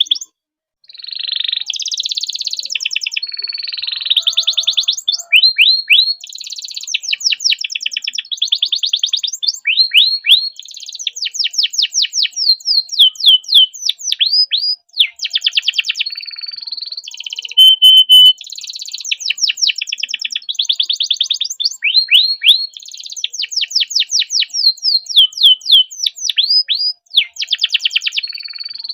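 Domestic canary singing a long continuous song of fast rolling trills, quick rising sweeps and a few held whistled notes, with only brief pauses.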